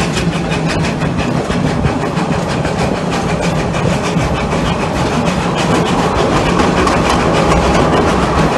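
Steam train running along the track, heard from the car behind the tender: a steady rumble of wheels on rail with many short clicks.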